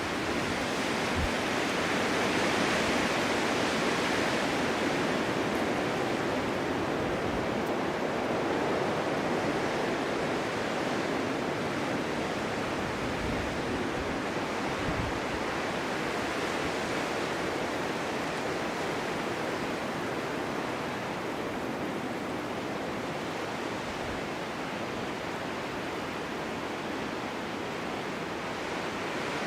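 Snowstorm wind blowing steadily, an even rushing hiss that swells a few seconds in and then slowly eases.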